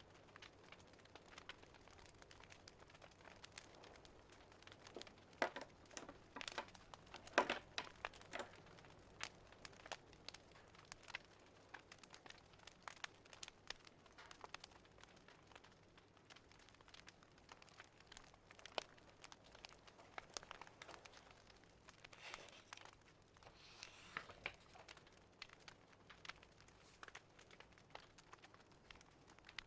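Wood fire crackling faintly with scattered small pops and snaps, and denser bursts of louder crackles about seven seconds in and again near 24 seconds.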